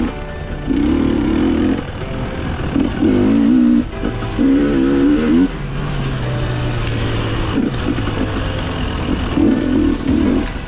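Dirt bike engine revving in repeated surges of about a second each, the pitch wavering as the throttle opens and closes, with a steadier lower tone in the middle stretch.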